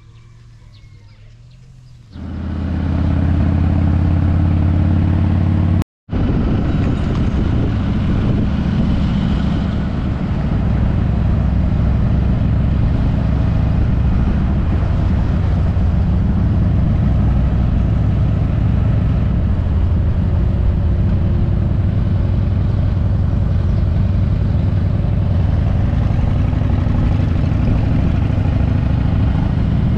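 Harley-Davidson V-twin motorcycle engine that comes in suddenly about two seconds in and runs steadily. After a brief dropout near six seconds it keeps running under way, its exhaust note mixed with wind rushing over the microphone.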